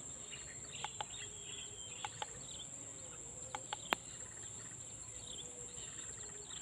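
Steady high-pitched drone of crickets or similar insects, with short bird chirps over it and a few scattered sharp clicks.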